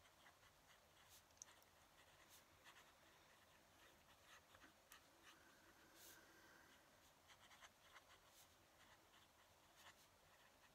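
Fountain pen nib scratching on paper in short, irregular strokes, very faint.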